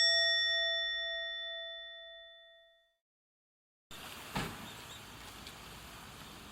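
A single bell-like chime ringing out and slowly fading away over about three seconds. Then a brief dead silence, then a faint steady hiss with one small crack shortly after.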